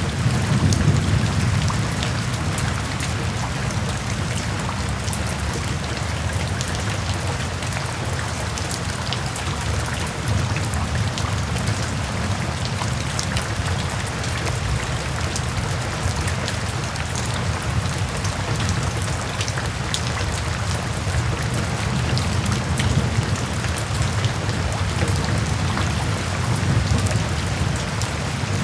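Steady rain falling, with individual drops ticking over an even hiss, above a low rumble that swells slightly near the start and again near the end.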